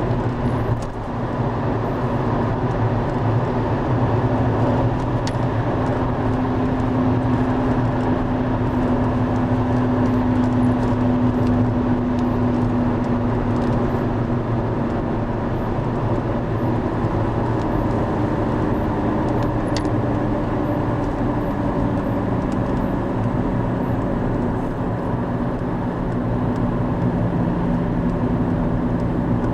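Steady low roar of the Driva river in a major flood, about a 50-year flood. Faint humming tones sit under it and shift in pitch about two-thirds of the way through.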